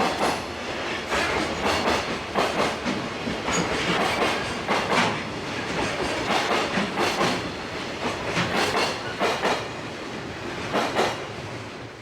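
Freight train wagons rolling past, their wheels clattering over rail joints in repeated clusters of clicks. The sound fades near the end as the tail of the train goes by.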